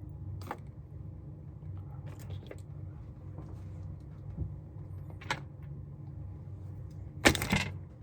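Hard plastic clicks and knocks as an action figure and its small accessories are handled and pulled off. There are a few scattered ticks, then a louder clatter near the end, over a steady low hum.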